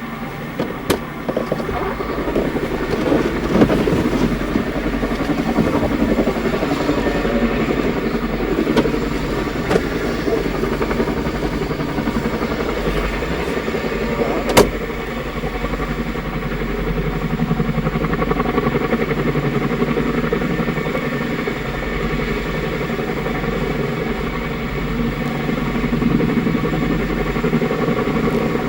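CH-47 Chinook helicopter running, its rotors and turbine engines making a steady loud drone with a low pulsing rumble underneath. A single sharp click sounds about halfway through.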